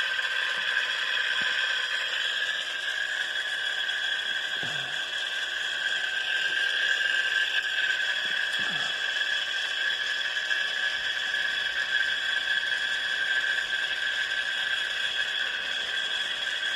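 G-800 antenna rotator's motor and gear train running steadily as the rotator turns counterclockwise: an even gear whir with a constant high-pitched hum. The rotator has been rebuilt with a new potentiometer gear, cleaned and lubed.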